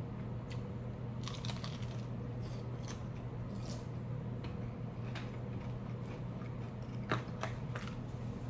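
A person chewing food close to the microphone: scattered moist clicks and small crunches, the sharpest about seven seconds in, over a steady low hum.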